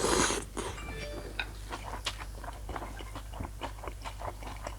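Close-up eating sounds: a brief slurp of noodles at the start, then steady chewing with many small wet mouth clicks.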